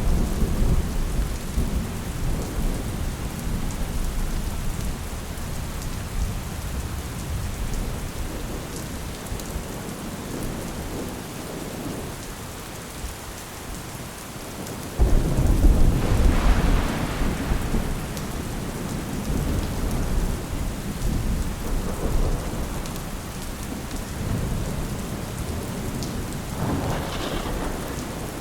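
Steady rain with rolling thunder. A low rumble sounds at the start, a sudden loud thunderclap rumbles about halfway through, and another lighter roll of thunder comes near the end.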